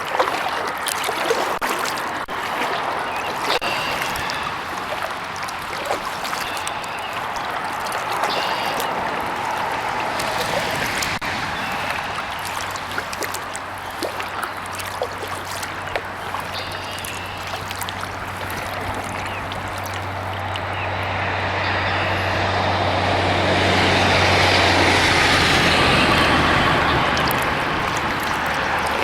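Steady traffic noise from a nearby interstate highway, with a heavy vehicle's low engine drone building and passing loudest about three quarters of the way through. Kayak paddle strokes drip and splash in the water alongside.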